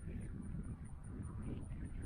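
Wind buffeting the microphone: a low, gusty rumble that rises and falls unevenly.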